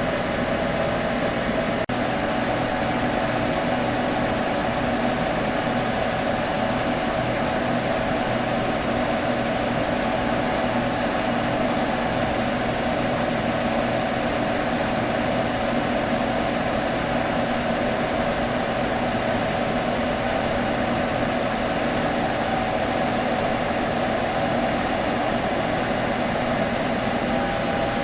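Computer humming steadily: its running fans give an even hiss with a low hum of several steady tones over it.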